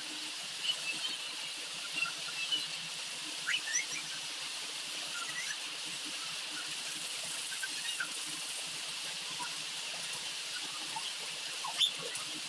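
Birds chirping now and then over a steady hiss. Near the end a stainless ladle knocks against the aluminium cooking pot as the broth is stirred.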